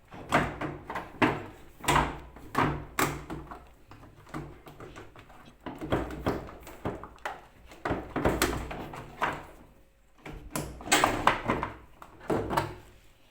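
Plastic clips snapping and the plastic housing of a washing machine's control board knocking and rattling as it is worked loose from its clipped mount and pulled free. The knocks are irregular and come in bunches, with a short lull about four seconds in and another near ten seconds.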